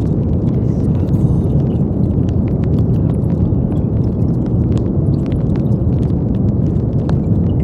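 Steady brown noise: a deep, even rushing hiss weighted heavily toward the low end, with faint scattered ticks in the upper range.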